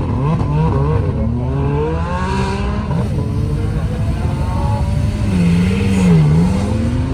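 Performance car engine accelerating hard, its pitch climbing and dropping back several times as it shifts up through the gears, then a lower engine note rising and falling.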